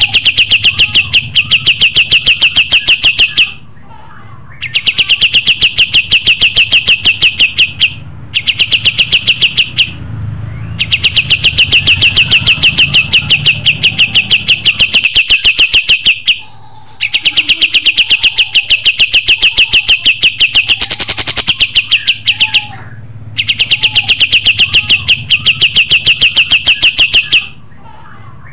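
Songbird singing long, very fast trills of evenly repeated high notes in bouts of several seconds, with short pauses between them. A low hum runs underneath.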